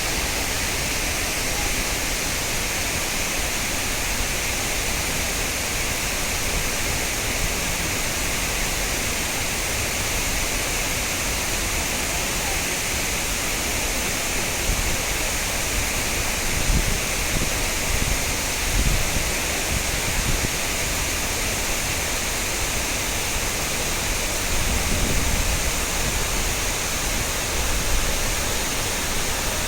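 A large waterfall rushing steadily: a dense, even hiss of falling water that does not let up, with a few brief low rumbles around the middle and near the end.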